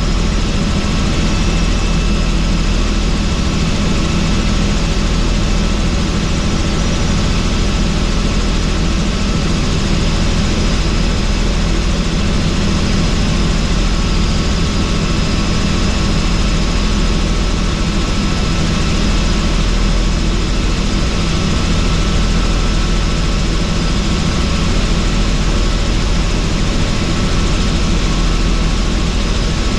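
Helicopter in steady flight heard from on board with the doors off: a constant deep drone with several steady high-pitched whines over it.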